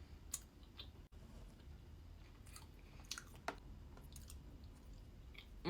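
Close-up mouth sounds of chewing dense, dry angel cake: soft, scattered wet clicks and smacks.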